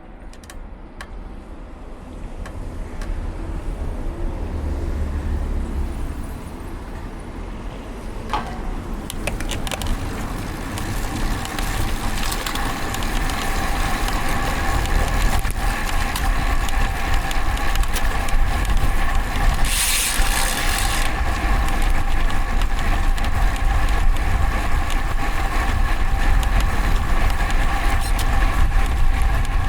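Road traffic heard from a moving bicycle: a motor vehicle's steady hum grows gradually louder over a low rumble, with a short hiss about twenty seconds in.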